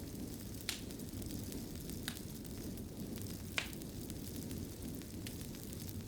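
Wood fire burning in a fireplace: a steady low rumble with sharp crackles and pops every second or so, the loudest about three and a half seconds in.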